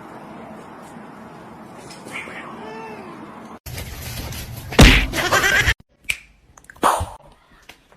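A cat meows faintly a couple of seconds in. About five seconds in there is a loud slap or thump, followed by a few short separate sounds.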